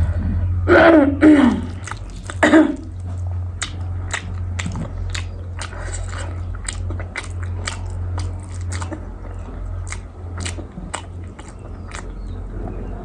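Close-miked chewing and biting of food, with many short wet mouth clicks and crunches. Two or three short vocal sounds, like a throat clearing or a murmur, come in the first few seconds, over a steady low hum.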